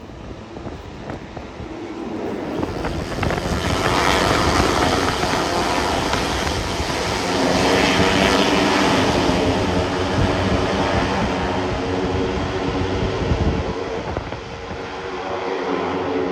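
A pack of Moto3 race motorcycles, 250 cc single-cylinder four-strokes, going past on track at racing speed. Their engine noise builds a couple of seconds in, stays loud for several seconds, then eases off as a few bikes trail through.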